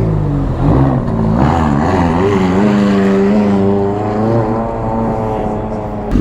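A vehicle engine pulling away, its pitch wavering and climbing, then holding fairly steady. It cuts off suddenly near the end.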